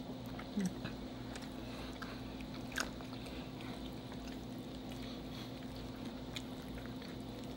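Quiet chewing and biting of cubed steak in gravy, with a few short wet smacks and clicks, the clearest about three seconds in, over a steady low hum.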